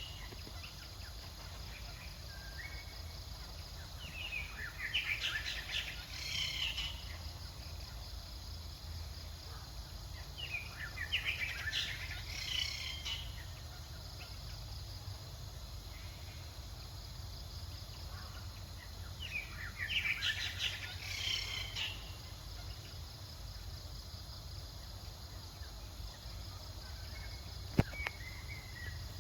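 Birds chirping in short bursts of rapid high calls, three times, over a steady low outdoor rumble, with a single sharp click near the end.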